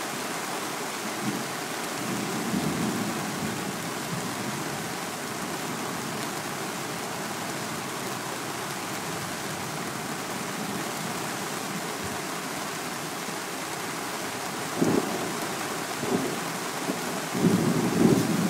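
Heavy rain pouring steadily during a thunderstorm, with sudden louder low rumbles of thunder about fifteen seconds in and again near the end.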